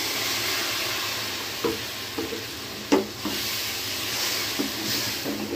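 Tomato purée sizzling in hot oil as it hits browned onions and ginger-garlic paste in a steel pot. A steel spoon scrapes and knocks against the pot as it is stirred, with a sharper knock about three seconds in.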